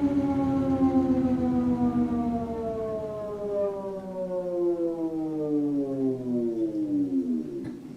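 2006 GE Profile top-loading washer coasting down at the end of its final spin: the motor and drum whine falls steadily in pitch and dies away near the end, with a light click as it stops.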